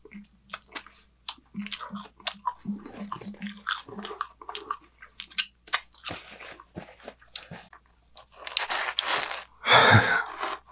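Close-miked chewing of a mouthful of pizza, with many short wet mouth clicks and smacks. Two louder rustling bursts of noise come near the end.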